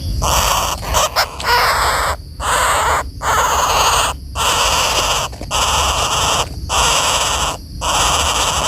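Common flameback woodpecker giving harsh, rasping calls, each about a second long, repeated about seven times with short gaps between them.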